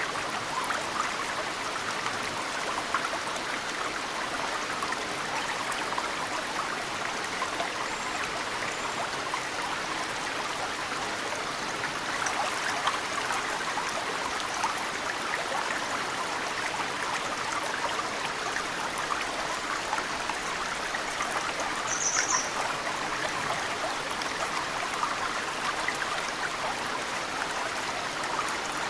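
Mountain stream flowing steadily, with snowmelt drops trickling off cedar roots and dripping into the water as many small ticks over the flow. A brief high bird chirp comes about two-thirds of the way through.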